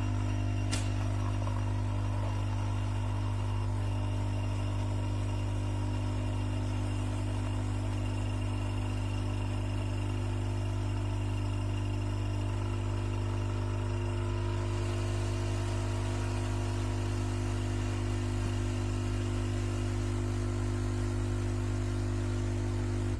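Capsule coffee machine's vibratory pump buzzing steadily as it pushes water through, a low mains-frequency hum, then stopping abruptly.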